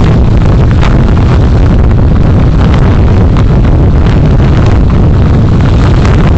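Heavy wind noise buffeting the microphone while travelling, loud and steady, over the rumble of a vehicle on the move, with faint scattered knocks.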